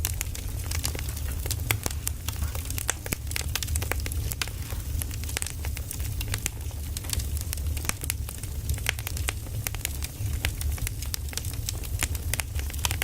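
Burning firewood crackling, with dense irregular pops and snaps over a steady low rumble.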